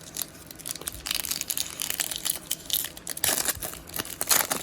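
Foil trading-card pack wrapper being torn and crinkled by hand: a dense run of crackling that gets louder about three seconds in.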